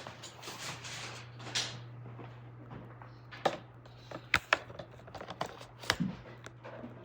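Scattered light clicks and knocks of a cordless stick vacuum being handled, over a steady low hum; the vacuum's motor is not running.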